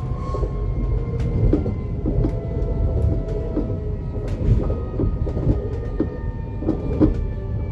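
Siemens Desiro HC electric multiple unit running, with a steady low rumble and several thin motor tones over it. Repeated short knocks come through about twice a second.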